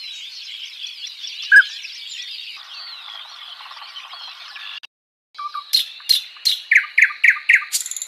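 Many birds chirping together in a dense chatter, with one louder note standing out about one and a half seconds in. After a brief break, a bird gives a quick run of short, sharp, repeated notes, about four or five a second.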